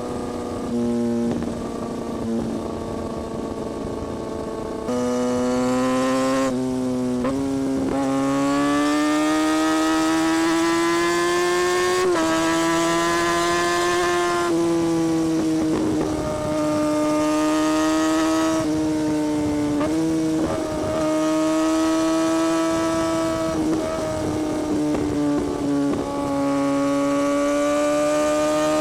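2017 Kawasaki Ninja ZX-6R's inline-four engine and exhaust under way. It runs steadily at first, gets louder about five seconds in, then climbs in pitch and drops back several times as the throttle and gears change.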